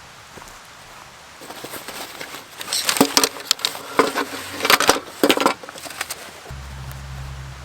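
Close handling noises: crackling rustles with several sharp clicks and knocks over a few seconds, after which a steady low hum starts near the end.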